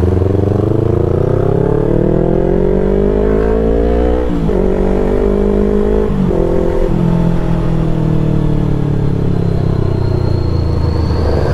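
Yamaha R3 parallel-twin engine pulling hard under acceleration, rising in pitch through the gears with quick upshifts about four, six and seven seconds in, then winding down steadily as the throttle is eased off.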